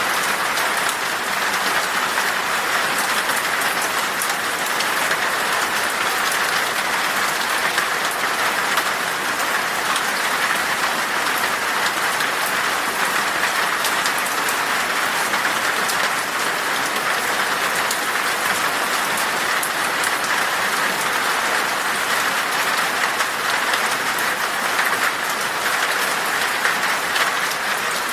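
Steady rain falling in a forest: an even hiss of rain with individual drop hits ticking through it.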